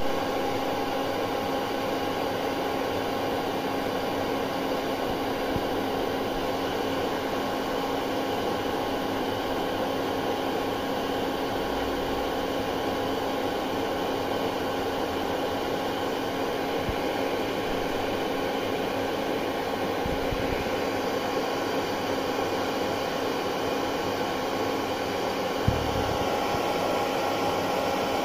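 Hair dryer running steadily: a continuous airy rush with a steady motor hum, and one brief tick near the end.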